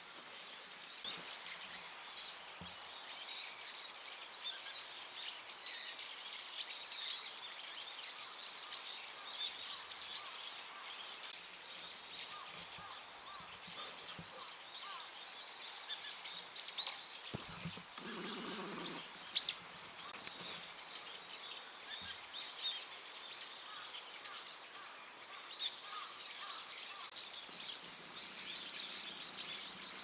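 Wild birds calling: many short, squeaky chirps and calls overlapping all the way through, over a steady outdoor hiss. A brief lower sound comes about two-thirds of the way through.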